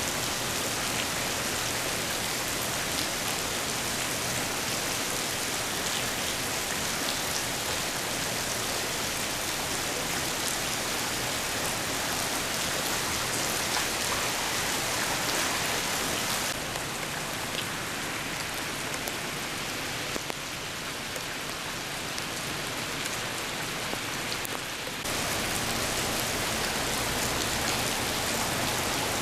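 Heavy rain falling steadily, an even hiss with scattered drop ticks; it turns a little softer and duller for about eight seconds past the middle, then returns.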